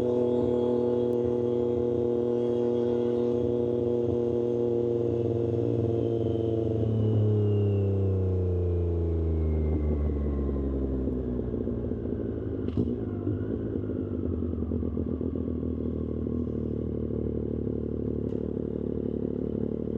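Triumph Street Triple 765 RS inline-three engine, breathing through an aftermarket SC-Project exhaust, running at steady revs while riding. About seven seconds in the engine note falls over a few seconds as the revs drop, and the engine then carries on at low revs with a rougher, burbling note.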